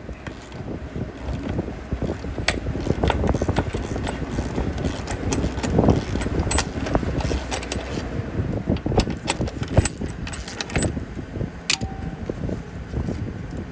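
Irregular metal clanks and knocks from steel parts being handled and fitted, over a low rumble, with one knock near the end that rings briefly.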